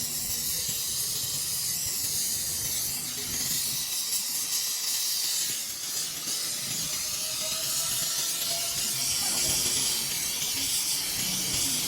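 Steady hiss of a gas welding torch flame.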